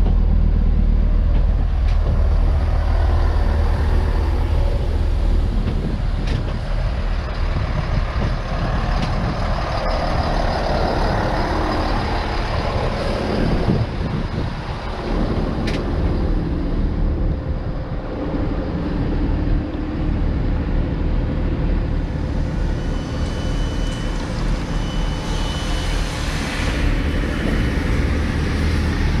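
Diesel train engine running at a platform, a deep steady hum that eases a little partway through. Two short high beeps sound near the end.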